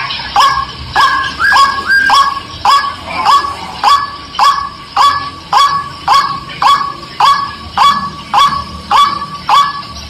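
White-breasted waterhen (ruak-ruak) calling: a loud, monotonous series of short upswept notes, about two a second. This is the bird's repeated call as used for luring wild waterhens.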